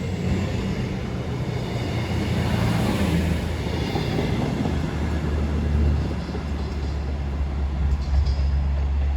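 CrossCountry Class 220 Voyager and Class 221 Super Voyager diesel multiple units, with a steady low drone from their underfloor diesel engines.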